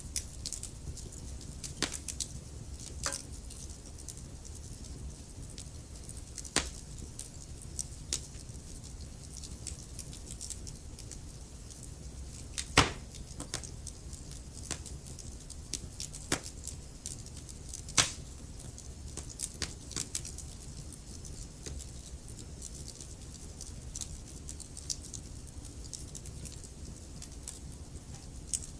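Logs burning in a fireplace: a steady low rumble of flames with irregular crackles and snaps, and a few louder pops, the sharpest about 13 and 18 seconds in.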